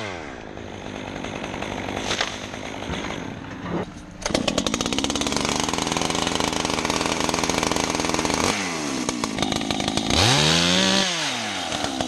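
Two-stroke chainsaw: its revs drop to idle at the start. About four seconds in it opens to full throttle with a rapid rattle for about four seconds, then is revved up and down several times.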